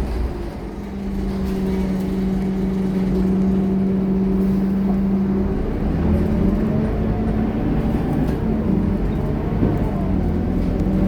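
Scania K230UB single-deck city bus engine running. It holds one steady note for the first half, then rises in pitch as the bus pulls harder about six seconds in, dips, and climbs again near the end.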